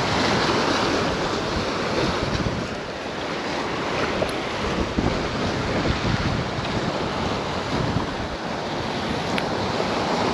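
Strong wind rushing over the microphone with choppy water splashing: a steady, unbroken roar of noise.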